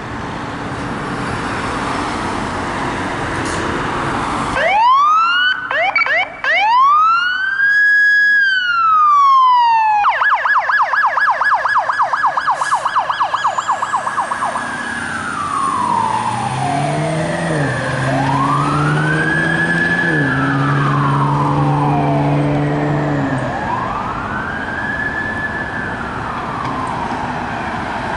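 Fire engine's electronic siren passing: slow rising and falling wails start about five seconds in, switch to a fast yelp for about four seconds, then go back to slow wails. A low blaring tone sounds under the siren for several seconds in the middle. Before the siren starts there is only traffic and engine noise.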